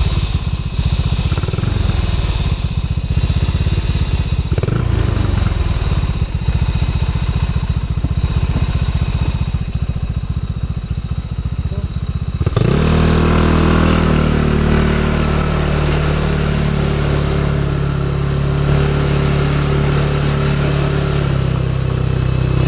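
Motorcycle engine running under way at low revs, then revving up sharply about halfway through and holding a higher, steady engine note.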